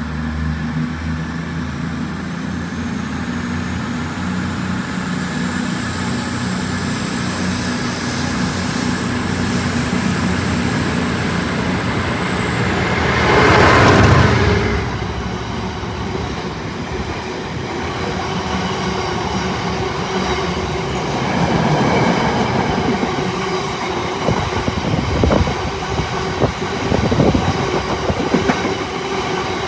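A train running through a station: a steady low hum with a faint high whine, a loud surge of rushing noise about halfway through, then wheels clicking over rail joints near the end.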